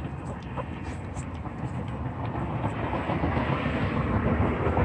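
Train rolling along the tracks close by, a steady low rumble that grows a little louder toward the end.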